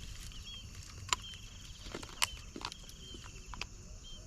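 Insects chirping in pulsed trills, with a few sharp clicks and taps over a low outdoor background.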